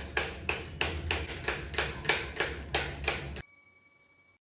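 Quick, evenly repeated taps or pats, about three a second, over a low hum, cutting off abruptly near the end into near silence.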